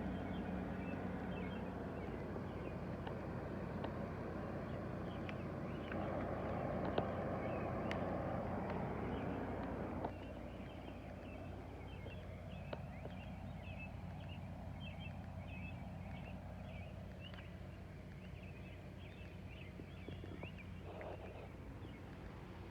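Outdoor garden ambience after rain: many short high chirps from small animals repeat throughout over a steady low hum. A louder rumble swells about six seconds in and stops abruptly about ten seconds in.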